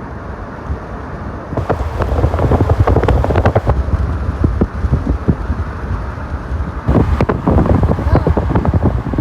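Wind buffeting the microphone: a loud low rumble with irregular gusts and crackles, stronger from about two seconds in.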